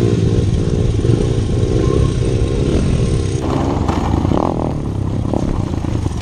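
Motorcycle engine running under throttle, its pitch rising and falling. About three and a half seconds in the sound changes abruptly to a rougher engine noise with scattered knocks.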